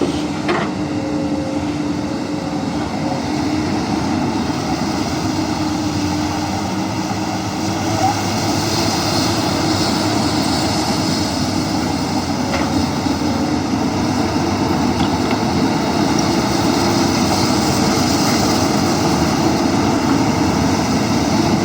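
Komatsu PC200 excavator's diesel engine and hydraulics running steadily under digging load, a little louder from about eight seconds in, with a few faint clicks.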